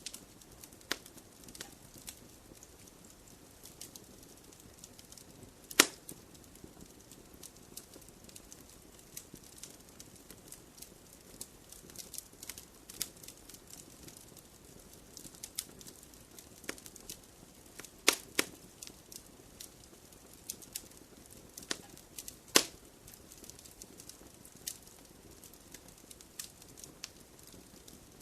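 Wood fire burning in a fireplace, crackling steadily with irregular sharp pops and snaps, a few much louder pops standing out, one about six seconds in and others near eighteen and twenty-two seconds in.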